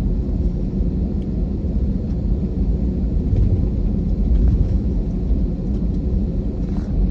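Steady, loud low rumble of jet engines and airflow heard inside an Airbus airliner's passenger cabin.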